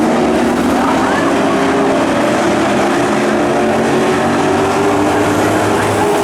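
Pro trucks racing together on a dirt oval: several engines running at speed at once, a loud, steady drone of overlapping engine notes that shift slightly in pitch.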